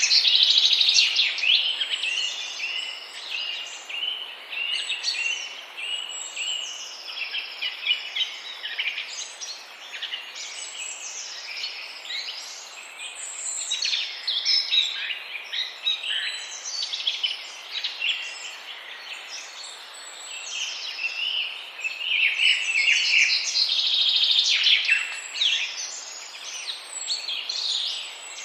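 Many small birds chirping and singing at once in a dense, overlapping chorus of high calls. It swells near the start and again about three-quarters of the way through.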